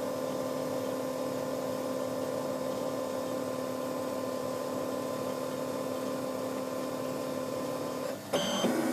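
CEREC MC XL dental milling unit humming steadily while it measures the length of the block before milling. The hum stops about eight seconds in, followed by a brief, louder sound.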